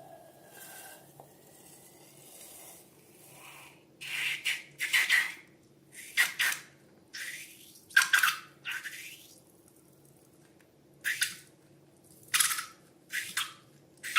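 Slime being squeezed and worked by hand: a series of about eight short wet squelching noises, some sliding down in pitch, over a faint steady hum.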